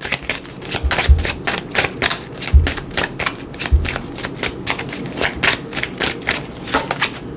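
A tarot deck being shuffled by hand: a quick, continuous run of card flicks and rustles, with a few low thumps in the first few seconds.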